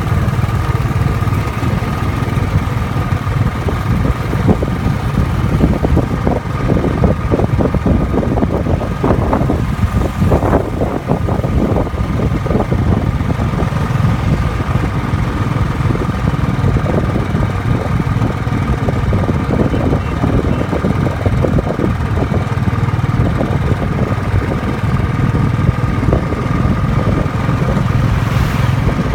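Motorcycle engine running steadily while riding, a continuous low rumble with a thin constant whine above it.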